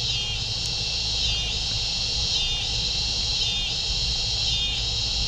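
Insects chirring in a steady high-pitched evening chorus that pulses in phrases a little over a second apart.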